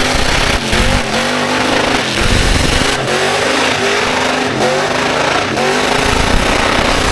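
Car engine revving hard during a burnout, its revs rising and falling several times, over the steady noise of spinning tyres.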